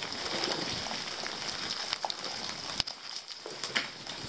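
Steady rain hiss with scattered drops and ticks, and one sharp click about three seconds in.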